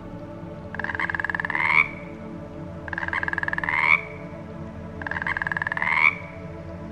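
An animal calling three times, about two seconds apart. Each call is a rapid pulsing trill of about a second that rises slightly in pitch and peaks at its end.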